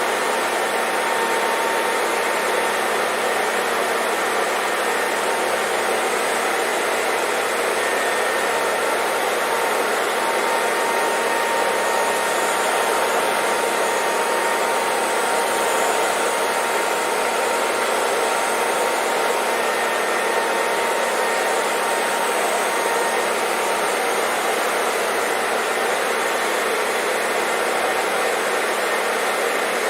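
Hair dryer running steadily: an even rushing of air with a faint, steady whine from the motor.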